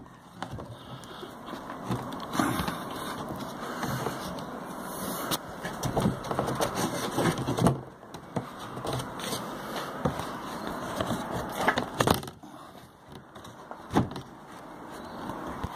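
Irregular rustling and scraping of things being handled, with clicks throughout and a few sharp knocks, the loudest about 8, 12 and 14 seconds in.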